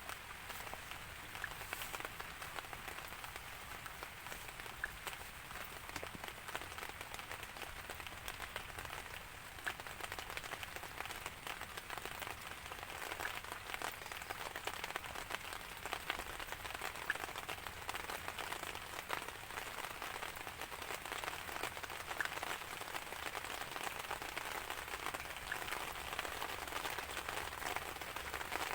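Steady rain falling, an even hiss sprinkled with many small drop ticks, with no thunder.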